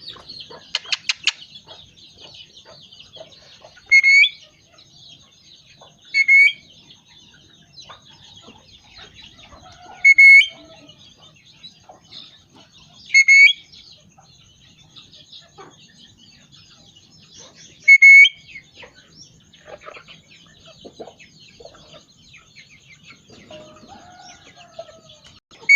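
Ringneck parrot calling: five or six short, loud, shrill calls spaced a few seconds apart. Between them runs softer, continuous twittering chatter, with a quick run of clicks about a second in.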